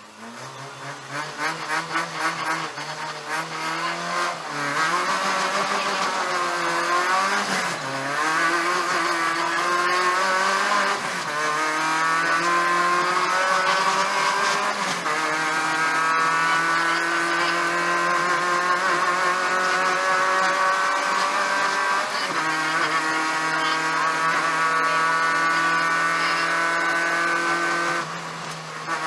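Peugeot 205 1.9 GTI rally car's four-cylinder engine heard from inside the cabin, launching off the stage start and driven hard through the gears. Its pitch swings up and down with throttle and gear changes, then is held at high revs, with a short lift near the end.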